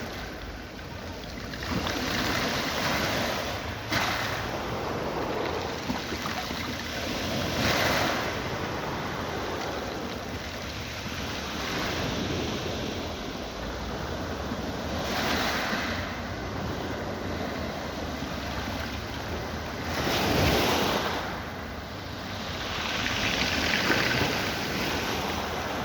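Black Sea waves breaking on the shore: a steady wash of surf that swells louder every few seconds as each wave comes in.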